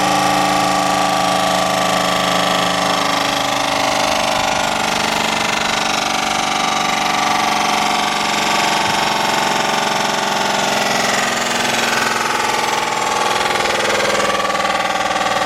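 2020 Jeep Wrangler making a loud, steady, rapid jackhammer-like rattle. It is an unexplained noise whose cause the owner cannot find.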